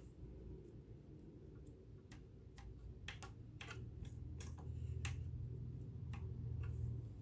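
Irregular light metal clicks and ticks from a vintage all-metal sewing machine's mechanism being worked during cleaning and oiling, over a low hum that swells in the second half.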